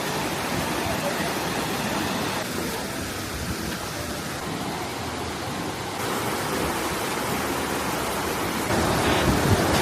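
Steady rush of falling water from a waterfall, an even noisy hiss that gets louder about six seconds in and again near the end.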